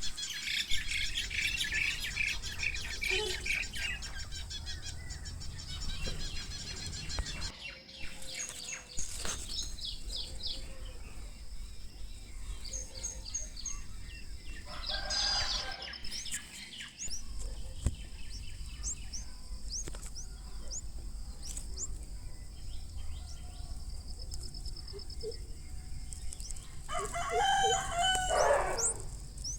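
Small birds chirping and calling, with many short high chirps throughout and a louder burst of calls near the end.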